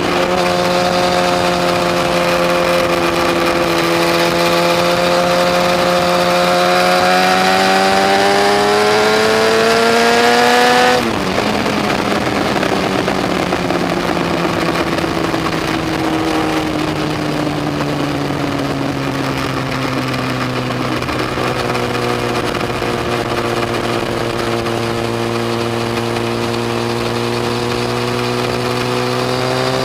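Yamaha FZ1's inline-four engine under way, its note rising steadily for about ten seconds, then dropping suddenly and falling away slowly as the revs come down. The revs level off and start climbing again near the end.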